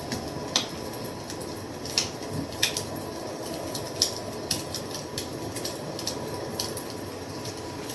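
Wood fire crackling: a steady hiss with irregular sharp pops, about half a dozen louder ones.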